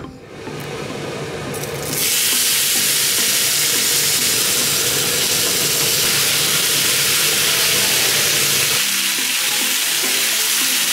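Mushrooms and capsicum sizzling loudly as they go into a hot oiled pan. The frying hiss swells about two seconds in, then holds steady.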